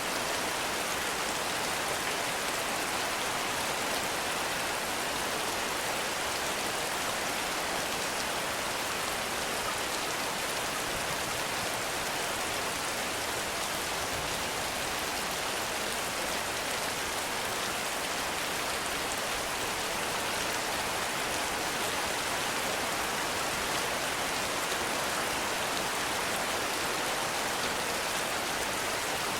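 Heavy rain falling steadily: a dense, even hiss of countless drops that keeps up without a break.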